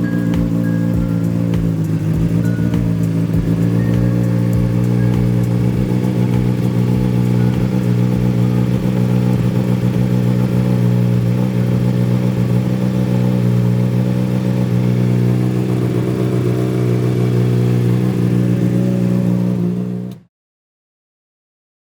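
Honda CBR600RR inline-four engine idling steadily through a freshly fitted MGP Growler exhaust, loud, with an even, unchanging pitch. About twenty seconds in, the sound cuts off abruptly to dead silence.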